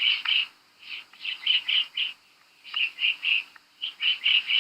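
Woodpecker calling: short, high notes in quick runs of three to five, with brief pauses between the runs.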